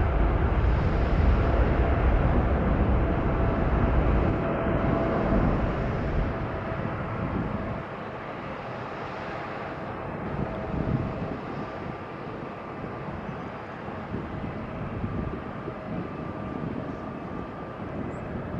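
Jet engine noise from a Boeing 777-300ER's GE90 engines at takeoff power: a broad rumble that fades and loses its low end after about eight seconds as the aircraft climbs away.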